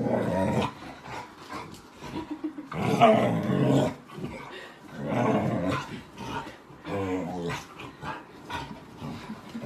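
A dog growling in repeated bursts, about four in all, the loudest about three seconds in.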